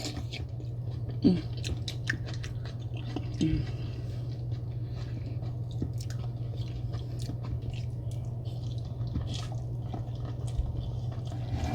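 Close-miked chewing and wet mouth sounds of someone eating seafood boil, with many small clicks. A steady low hum runs underneath.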